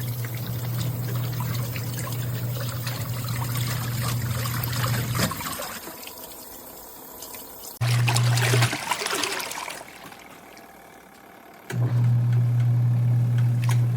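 Twin-tub portable washing machine running: its motor hums steadily while water trickles and splashes. The hum stops about five seconds in, comes back briefly around eight seconds, then starts again near the end.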